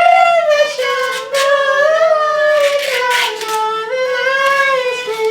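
A single voice singing long, drawn-out notes with no accompaniment, gliding between pitches.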